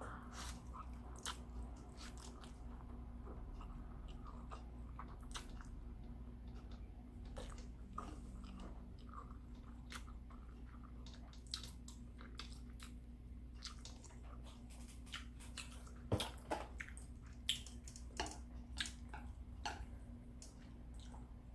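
A person eating instant stir-fried noodles close to the microphone: chewing with scattered short wet smacks and clicks, which come thicker about three quarters of the way through, over a steady low hum.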